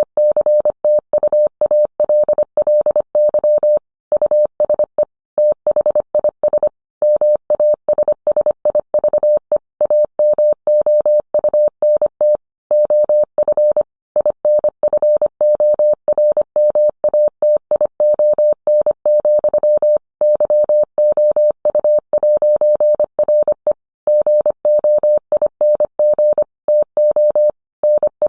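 Morse code sent as a single steady mid-pitched tone, keyed rapidly on and off in dots and dashes with short pauses between characters and words.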